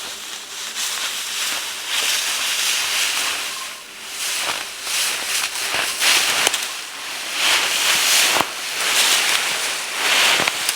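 Footsteps crunching through dry leaves and forest undergrowth, a crackling rustle that swells with each step about every second or so.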